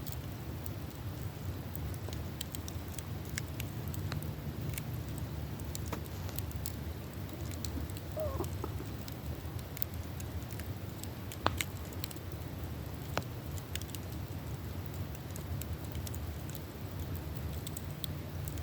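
Campfire burning, with scattered crackles and pops over a steady low rumble. One sharper pop comes about eleven seconds in, and a brief thin squeak about eight seconds in.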